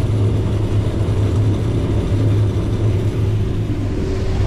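Combine harvester running steadily while harvesting corn, heard from inside the cab: an even, low engine and machinery hum with a steady higher tone above it.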